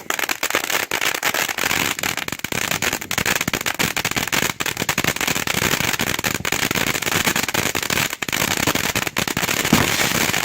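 Black Cat 'Monkeys in a Barrel' firework fountain in its crackling barrage: a dense, rapid stream of crackles over a hiss of sparks, starting suddenly and holding steady.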